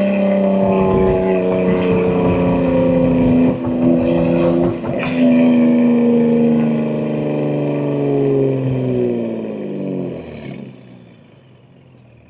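BMW M2 G87's S58 twin-turbo inline-six running through catless downpipes and an equal-length mid pipe. The engine note holds and climbs, breaks for a gear change about five seconds in, then slowly falls and fades as the car eases off, dying away near the end.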